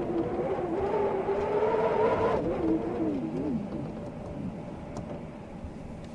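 Storm wind howling: a whistling moan that climbs slightly, then wavers and dies away after about three and a half seconds, over a steady rush of wind.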